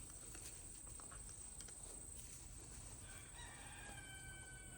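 A rooster crowing once, faint and distant, in the last two seconds, after a stretch of quiet outdoor hiss.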